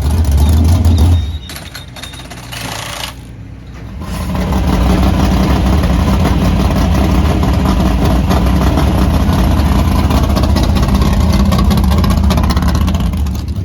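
Dirt-track modified race car engine running loud and steady. It comes up about four seconds in, after a brief loud low rumble and a quieter stretch with abrupt changes.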